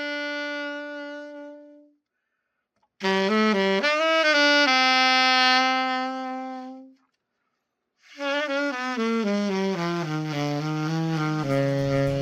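Yamaha YAS-82Z alto saxophone being play-tested after its setup. A held note fades out, then a short phrase ends on a long note, and near the end a run steps down into the horn's low register.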